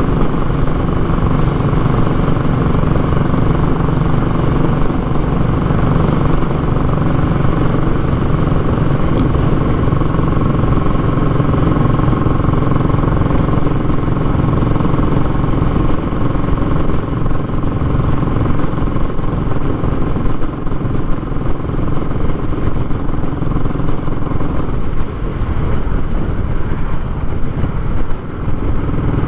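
Royal Enfield Classic 500's single-cylinder engine running through a short muffler on the move, a loud, steady, raw exhaust note. The level dips briefly a few times in the later part.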